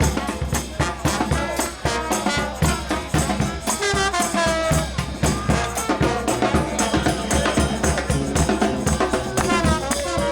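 New Orleans brass band playing a second line groove: a quick, steady drum beat under horn lines, with shaken percussion in the mix.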